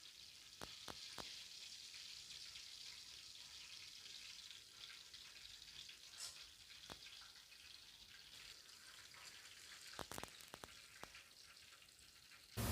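Breaded chicken cordon bleu frying in oil: a faint steady sizzle with scattered small pops, several close together about ten seconds in.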